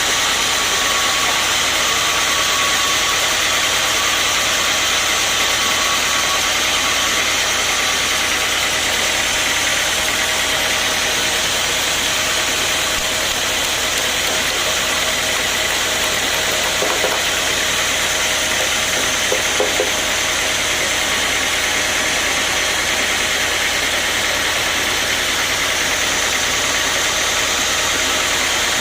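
Sawmill machinery running steadily with a constant hiss and hum, with a few short clicks about two-thirds of the way through.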